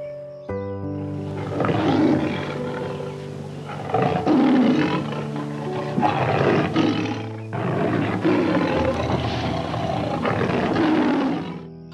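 Two long, rough, roar-like animal calls over background music, the first starting about a second in and the second taking over about halfway through.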